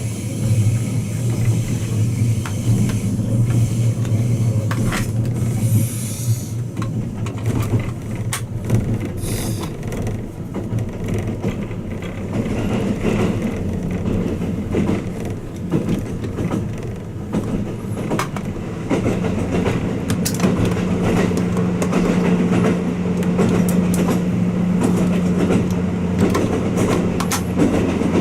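Running noise of the Twilight Express Mizukaze heard from inside a passenger cabin: a steady low drone with the wheels clicking over rail joints now and then. A steady hum comes in about two-thirds of the way through.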